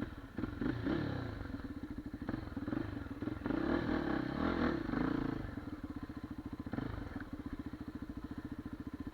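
Single-cylinder engine of a Geon Dakar 250 Twincam enduro motorcycle: the revs rise and fall a few times, then it settles into a steady, even low-rev running.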